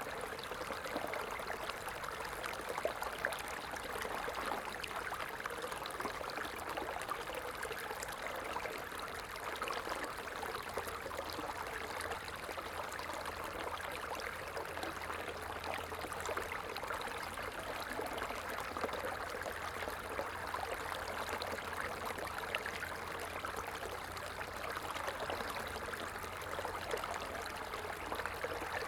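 A stream running over stones, with a steady babbling and trickling of water.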